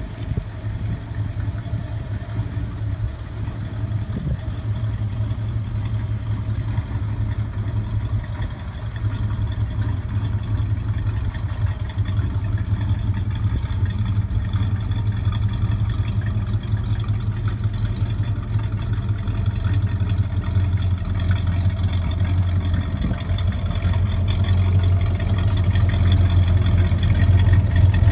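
1965 Pontiac GTO's rebuilt 389 V8 idling steadily through its dual exhaust, growing louder toward the end as the tailpipes come close.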